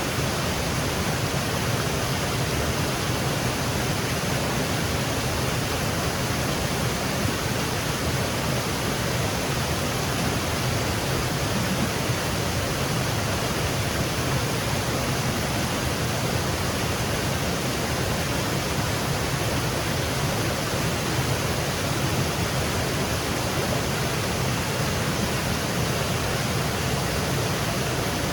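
Small woodland waterfall cascading, a steady, even rush of falling water.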